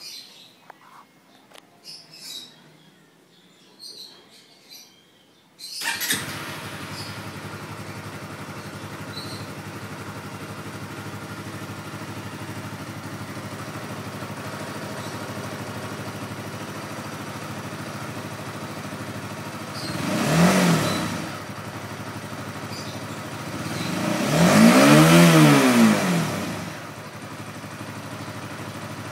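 Honda CBR150R's fuel-injected single-cylinder engine starting up about six seconds in and idling steadily. It is revved twice, briefly about two-thirds of the way through and then longer and higher a few seconds later, each rev rising and falling back to idle.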